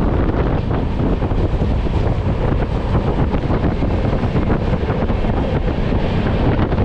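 Passenger train running at speed: a steady rumble of wheels on the track, with wind buffeting the microphone.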